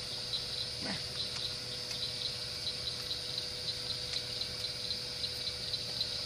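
Crickets chirping steadily, about four pulses a second, over a faint steady hum, with a short falling call about a second in.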